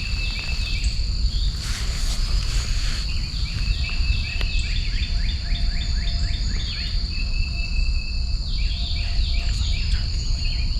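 Morning songbirds chirping, quick runs of falling chirps and short trills again and again, over a steady high-pitched insect drone and a low rumble.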